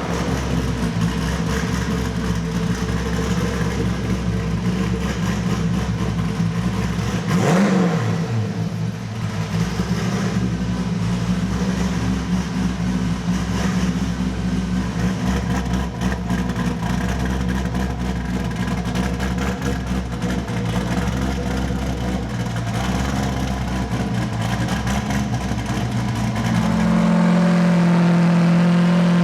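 Twin-turbo C6 Corvette Z06 V8 running steadily on a chassis dyno, with a brief blip of the throttle about seven or eight seconds in. Near the end the engine steps up to a louder, steady higher speed.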